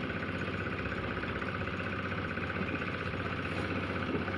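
An engine running steadily at a constant speed, with an even, fast pulsing and no change in pitch.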